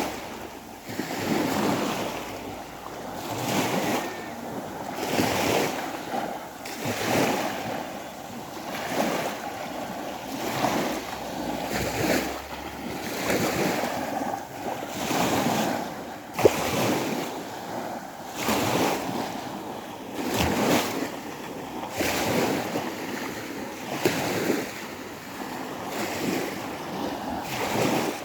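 Small waves of the Sea of Azov washing onto the shore, each one swelling and falling away about every two seconds. A single sharp tap comes about sixteen seconds in.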